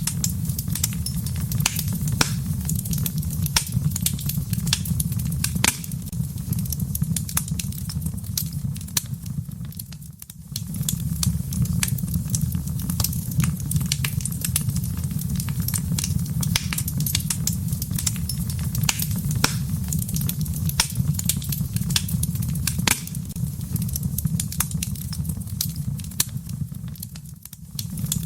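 Wood fire burning in a fireplace, crackling with many sharp pops over a steady low rumble. The sound dips briefly about ten seconds in and again near the end.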